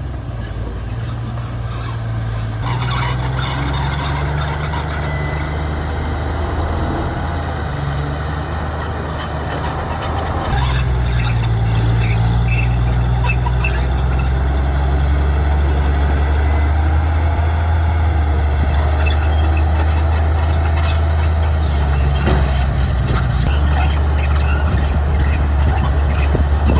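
Heavy-machinery diesel engine running steadily, getting louder and deeper about ten seconds in as it takes up load, with short high clicks and rattles over it.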